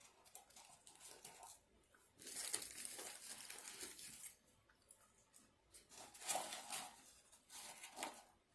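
Paper being handled: crinkling and tearing in several bursts, the longest starting about two seconds in and two shorter ones near the end.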